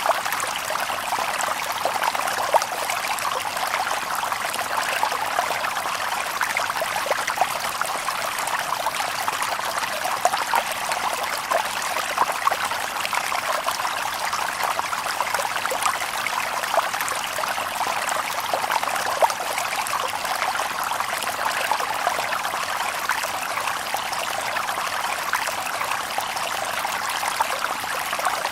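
Shallow river water babbling and trickling over stones, a steady flow with many small splashes.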